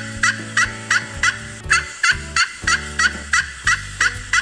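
Turkey gobbling: a fast run of short, repeated calls, about three a second.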